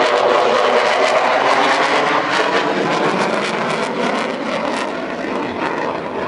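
F-16 fighter jet's engine roaring loudly as it flies past, with a ragged crackle in the middle, then easing off slowly.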